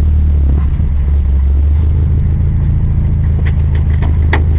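Car engine running at steady, fairly low revs on track, with a couple of brief clicks near the end.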